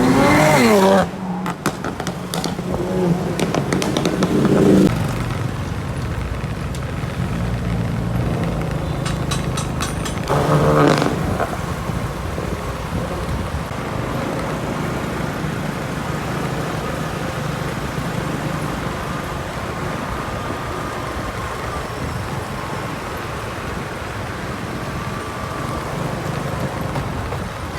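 BMW M3 engine revving through an aftermarket exhaust system: a sharp rev right at the start, another at about four seconds and a third at about eleven seconds. Just before the third rev comes a quick run of sharp pops. After that the engine settles to a steady idle.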